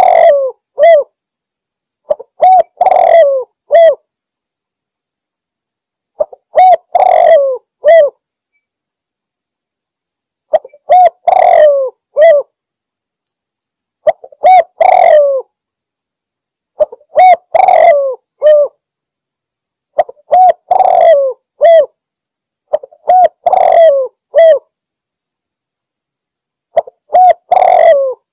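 Spotted dove (tekukur) cooing its repeated multi-note call, a phrase of several low hooting notes roughly every three seconds, about nine times.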